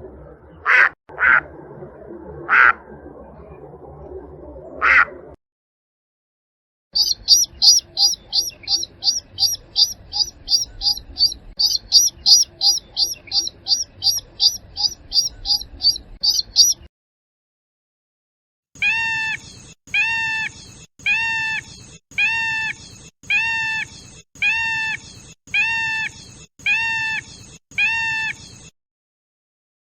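Calls of three different waterbirds, one after another, each separated by a short silence. First come a few sharp single calls over a noisy background, then a fast run of high piping notes at about three a second, then lower arched calls repeated about once a second.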